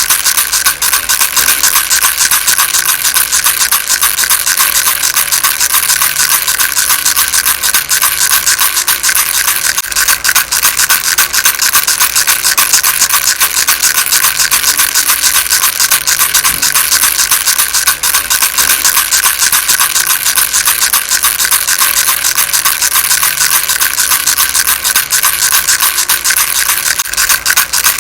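A rattle shaken without a break, giving a dense, steady stream of fine, rapid clicks.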